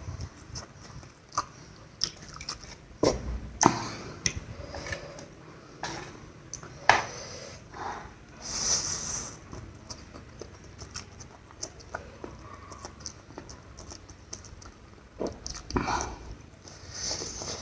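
A person eating spicy instant noodles close to the microphone: chewing and slurping, with scattered sharp clicks of chopsticks or utensils. There are two short hissy slurps, one about halfway through and one near the end.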